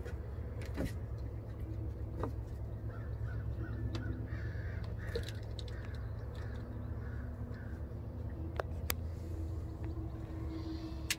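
Birds calling in the background, a run of short repeated calls in the middle, over a steady low rumble, with a few sharp clicks.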